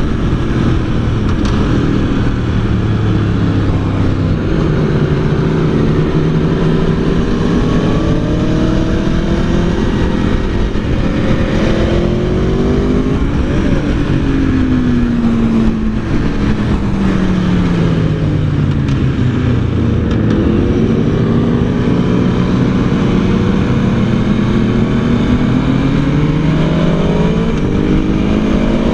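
Aprilia Tuono V4 1100's V4 engine under hard riding on a track, its pitch climbing and dropping through the gears over and over, with a long fall in pitch midway as the bike slows. Heavy wind rush runs underneath throughout.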